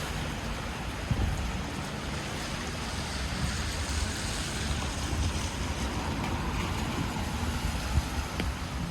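Steady hiss of rain and traffic on a wet city street, with a low rumble of wind on the microphone.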